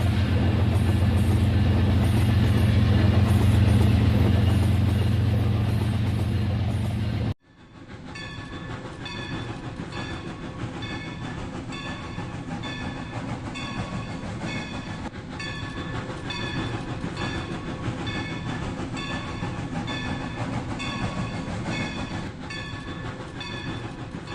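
Toy train set running. First a loud steady low hum for about seven seconds; after an abrupt cut, a quieter, even clicking with high steady tones, about one and a half clicks a second.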